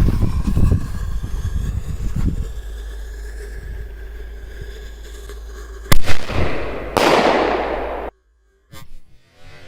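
Fireworks going off: a crackling rumble at the start that fades over a couple of seconds, then one sharp bang about six seconds in, followed by a hissing fizz lasting about a second that cuts off abruptly.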